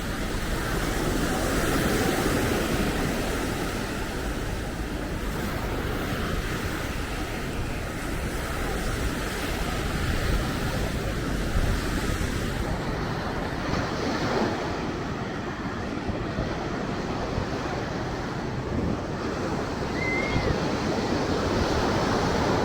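Ocean surf breaking on the beach: a continuous rushing wash that swells and eases, with wind buffeting the microphone.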